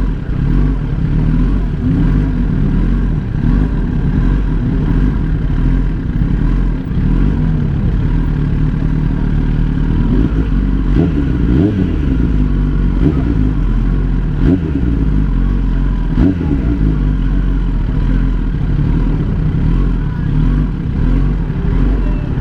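Motorcycle engine running steadily, its pitch rising and falling slightly a few times around the middle.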